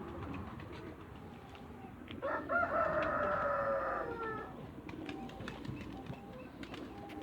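One long, drawn-out call from a poultry bird, lasting about two seconds and sliding slowly down in pitch, over a low background hum and a few light clicks.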